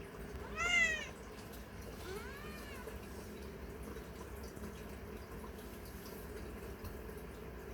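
Domestic cat meowing twice: a short, loud meow that rises and falls about half a second in, then a fainter one around two seconds, over a steady low background hum.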